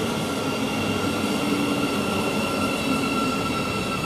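Thameslink Class 700 electric multiple unit at the station, giving a steady electrical hum with a high whine held on one pitch over a noisy rumble.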